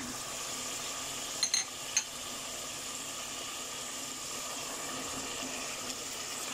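Mutton frying in hot oil in a pressure-cooker pot: a steady sizzle, with a few light clicks about one and a half to two seconds in.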